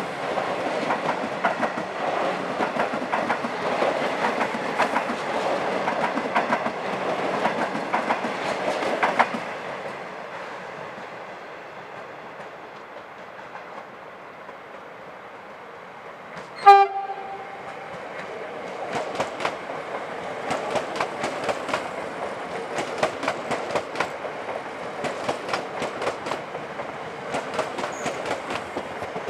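An electric suburban train rolls past, its wheels clicking over rail joints and points, and the sound fades away after about nine seconds. Around 17 seconds in, a second train gives a short horn toot, then passes with its wheels clicking over the joints.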